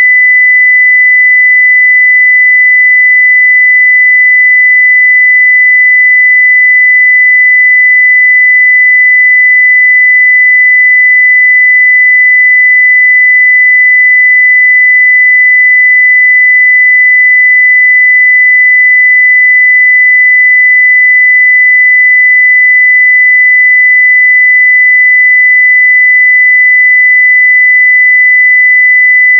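A pure 2 kHz sine-wave test tone at full level, held perfectly steady.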